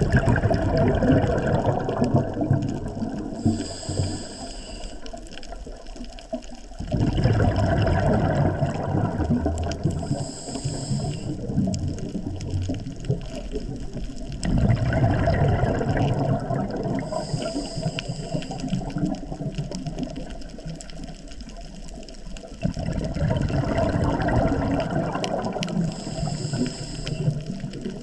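Scuba diver breathing underwater through a regulator. A rush of exhaled bubbles comes about every seven to eight seconds, four times, with a short high hiss of the inhale between them.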